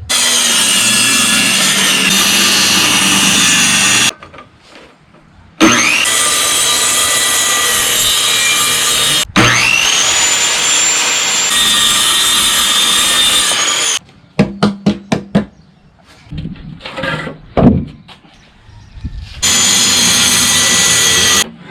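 Power saw cutting wood in steady loud stretches, with a whine rising as the blade spins up about nine seconds in. Partway through comes a quick run of sharp knocks.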